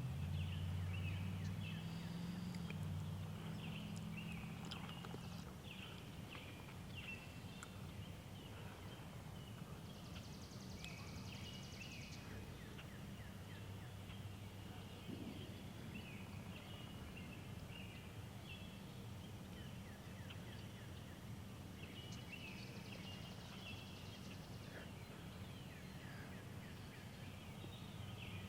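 Songbirds chirping and trilling throughout, over a low steady hum that is loudest in the first few seconds.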